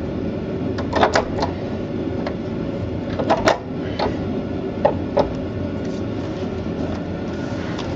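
Scattered short knocks and clicks of tools and parts against a boat engine's bell housing as it is worked loose, some in quick pairs, over a steady background hum.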